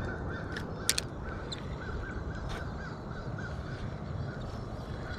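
Birds calling outdoors in quick runs of short, repeated notes over a steady low rumble, with one sharp click about a second in.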